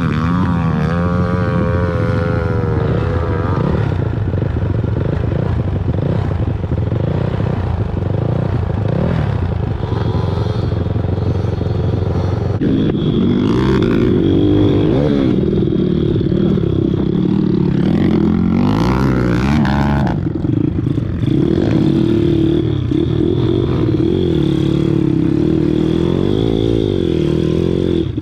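Pit bike engine running under riding, its pitch rising and falling as the throttle is worked on and off.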